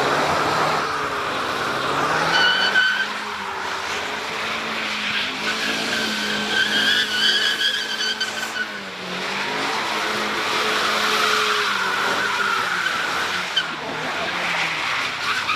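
A car drifting: its tires squeal in long, pitched screeches, in several stretches, over an engine revving up and down.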